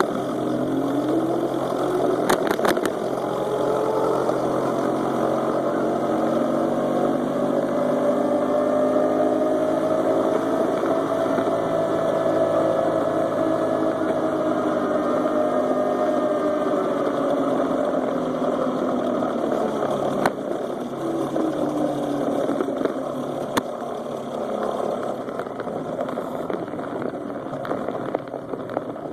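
Small engine of a friction-drive motorized bicycle running under way, muffled. Its pitch climbs steadily over the first dozen seconds, holds, then falls away as it slows. A few sharp clicks come about two seconds in.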